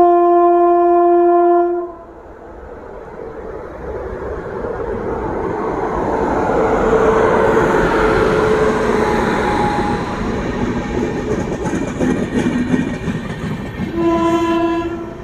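WAP-7 electric locomotive sounds a long horn blast, then the locomotive and its coaches run past at speed: a loud rushing rumble swells and holds, with wheel clicks over rail joints. A second horn blast of the same pitch comes near the end.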